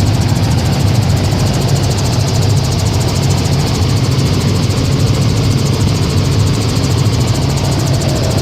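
Helicopter engine and rotor running steadily: a constant, loud low drone with an even hiss above it.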